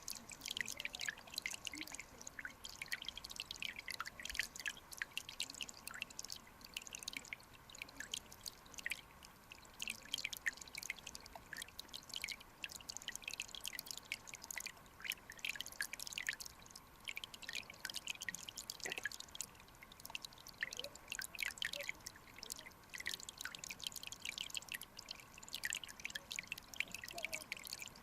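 Clear mountain stream water trickling and bubbling, a dense, irregular patter of small drips and bubble pops over a soft rushing hiss.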